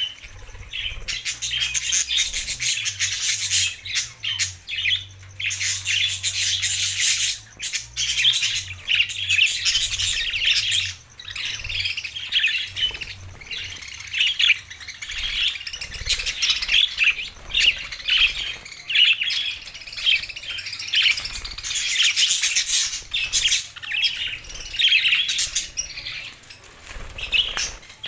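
Budgerigars chattering and warbling continuously, with many rapid chirps and squawks overlapping.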